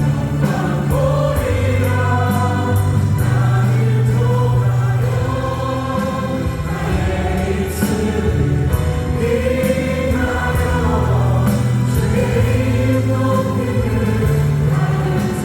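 Praise band worship song: several voices singing together over keyboards, drums and acoustic guitar, with a steady beat.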